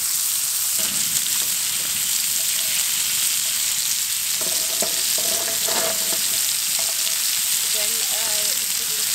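Minced-meat burger patties sizzling steadily as they fry.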